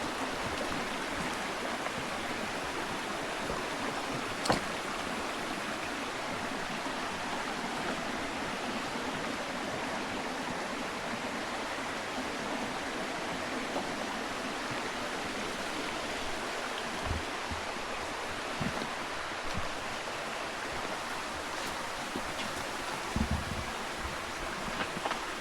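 A steady rush of water on a shoreline. There is one sharp click about four seconds in and a few low thumps near the end.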